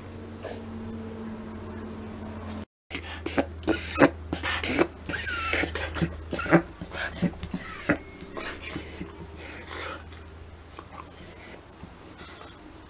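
Shiba Inu reverse sneezing: a rapid run of loud, harsh, forceful gasps through the nose that begins a few seconds in, lasts several seconds and then dies down.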